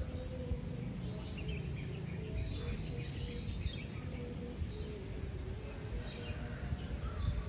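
Birds chirping repeatedly, a short call every second or so, over a steady low background rumble.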